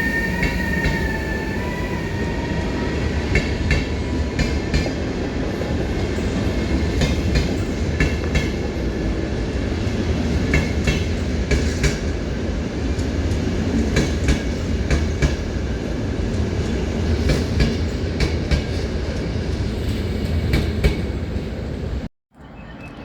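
Train running past, a steady rumble with its wheels clicking irregularly over rail joints; a whine rises in pitch during the first couple of seconds. The sound cuts off abruptly near the end.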